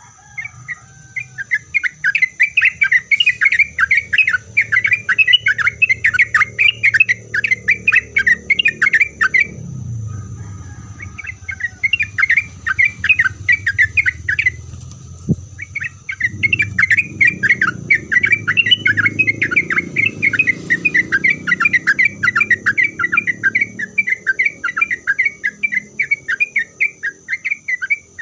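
Yellow-vented bulbul (trucuk) singing fast runs of short, rapidly repeated notes, in three long bouts with brief breaks about ten and fifteen seconds in.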